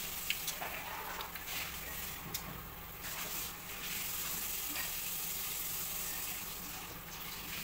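Crunching and crackling of crispy fried beef intestine chicharon being chewed and handled, with scattered small clicks.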